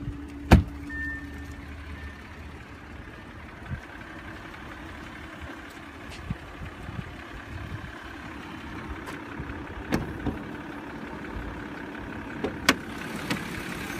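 The 2017 Audi Q7's 3.0-litre supercharged TFSI V6 idling steadily, a low hum with a faint high whine. A few sharp clicks and knocks, the loudest about half a second in and two more near the end.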